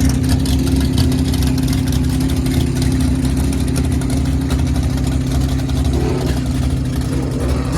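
Car engine idling loudly and steadily.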